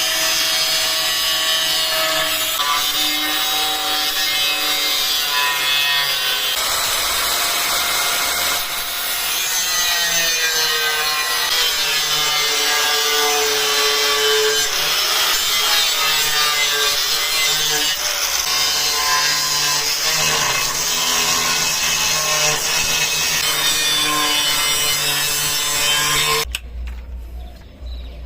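A power tool cutting 1/8-inch steel plate, a harsh steady grinding with a whine that slides up and down in pitch as the load changes; it stops about 26 seconds in.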